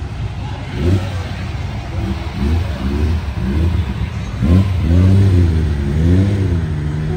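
Ferrari 275 GTB/4's V12 revving in several short rising bursts as the car pulls away, then settling to a steadier note near the end.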